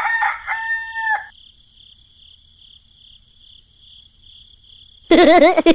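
A rooster crowing for about the first second, then a faint, steady high chirring of insects. About five seconds in a loud, wavering, warbling call breaks in.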